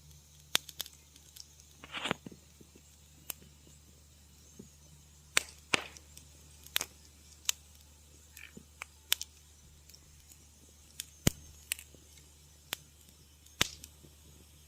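Wood fire crackling, with irregular sharp pops and snaps every second or so and a short hissing crackle about two seconds in.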